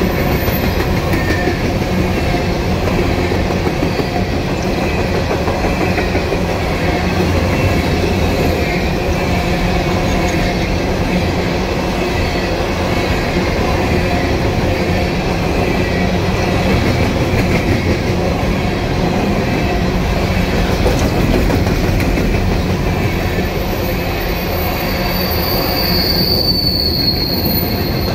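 Empty coal hopper cars rolling past on a curve: a steady rumble and clatter of steel wheels on the rail joints. A high wheel squeal joins in near the end.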